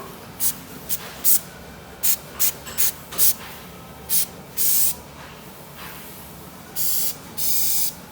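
Anti-rust spray paint hissing out in about a dozen short bursts, the later ones held longer, about half a second each.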